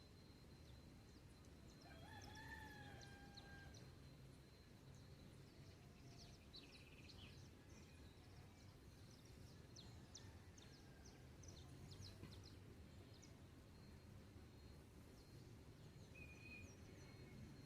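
Faint dawn farm ambience: a distant rooster crows once about two seconds in, followed by small birds chirping. A steady thin high-pitched tone runs underneath.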